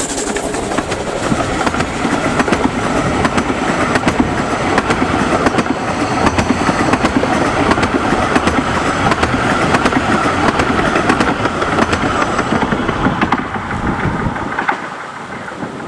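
A 15-inch-gauge steam locomotive and its coaches pulling away, with the clatter of wheels over the rails and the steady noise of the train. The sound falls away sharply near the end.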